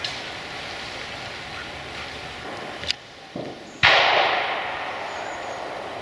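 A shotgun shot just before four seconds in, with its report trailing off through the wood. A sharper, shorter crack comes about a second earlier.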